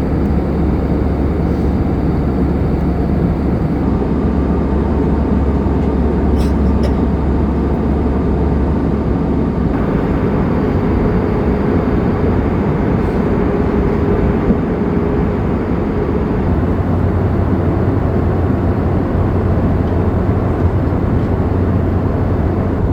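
Steady cabin noise of an Airbus A320-214 with CFM56-5B engines: a loud, even rush of engines and airflow over a low drone that shifts pitch slightly about ten seconds in.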